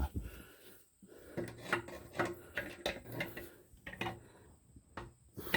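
A series of small clicks, knocks and scrapes as hard toilet parts are handled and worked by hand, ending in a sharper knock near the end.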